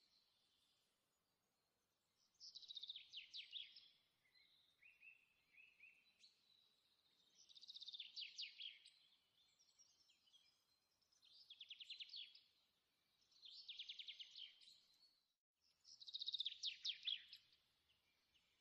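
A songbird singing: five short, rapid trilled phrases of quick falling notes, each about a second long and a few seconds apart, with softer chirps between them.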